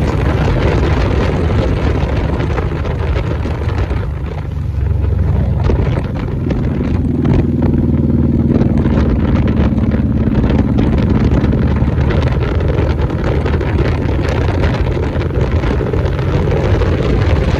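Motorcycle engine running while riding, mixed with heavy wind rush on the microphone; for a few seconds in the middle the engine note comes through more clearly.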